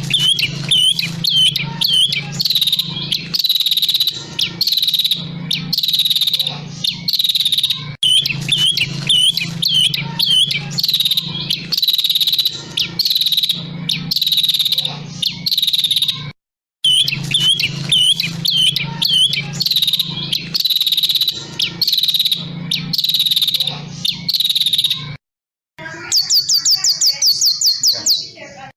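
Songbird singing a loud phrase of sharp chirping notes, repeated over and over. The song cuts off abruptly twice, and near the end a fast trill of rapidly repeated high notes follows.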